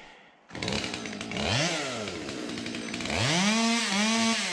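Two-stroke chainsaw starting up about half a second in, revving up and back down once, then revved again and held at high speed near the end.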